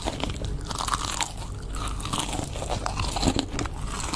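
Someone chewing and crunching food, heard up close as a dense run of crisp, crackly bites.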